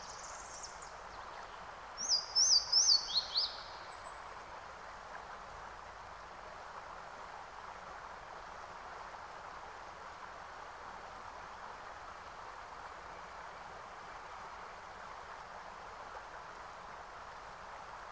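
A songbird gives one short chirp near the start, then a quick phrase of about five sharp, falling high chirps about two seconds in, over a steady background hiss.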